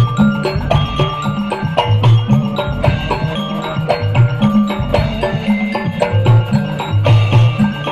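Hadrah ensemble playing an instrumental passage: frame drums and a kendang beat a fast, dense rhythm, with deep pitched drum tones and a melodic line over them.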